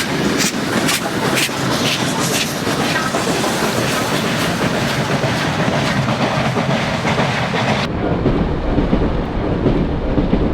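A heritage train hauled by the Garratt steam locomotive 6029, running loudly along the line, with a string of sharp clicks in the first few seconds. About eight seconds in, the sound shifts to a duller, lower rumble.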